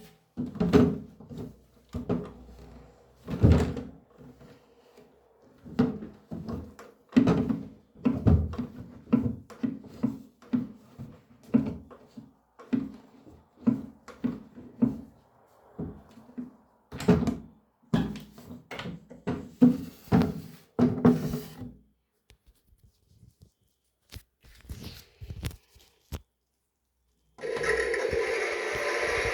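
Hard plastic clunks and clicks as a toy washing machine is handled, loaded and shut, a rapid run of knocks lasting about twenty seconds. After a short pause, its small electric motor starts near the end and runs with a steady buzz.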